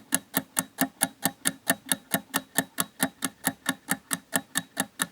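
Steady clock ticking, about five quick, even ticks a second, used as a time-passing effect.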